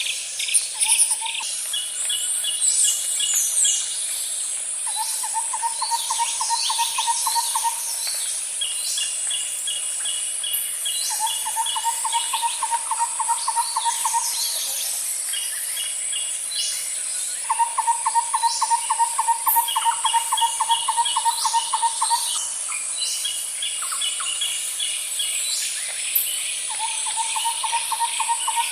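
Outdoor nature ambience: a steady high-pitched insect drone with birds chirping and trilling over it. A lower pulsed trill comes back every few seconds, each lasting two to four seconds.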